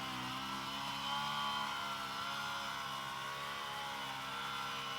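An engine running steadily at an even speed: a constant hum with faint higher tones that drift slightly.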